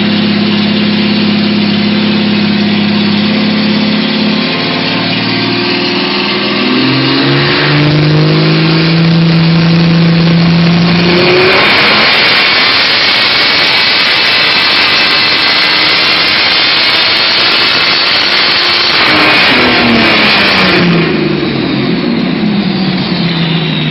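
Weiand-supercharged Holden six-cylinder engine running at a steady speed, its revs then climbing over several seconds. It goes to a loud full-throttle run lasting about eight seconds, and then the revs fall away steadily.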